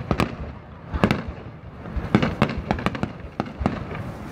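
Aerial firework shells bursting in an uneven string of sharp bangs, about a dozen, several coming in quick pairs.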